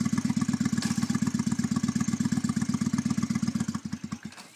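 Honda Shadow V-twin motorcycle engine idling with a steady rapid beat, then slowing and dying about four seconds in: the engine stalls.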